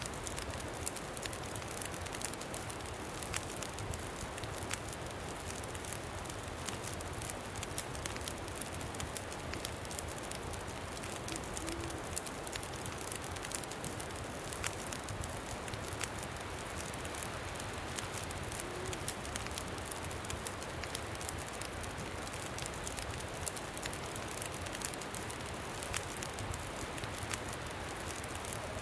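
Campfire crackling with many small, sharp pops over a steady rush of wind.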